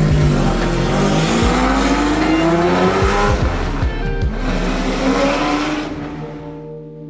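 Car engine revving, its pitch climbing in two long rises, with loud hiss, over background music; it fades out near the end.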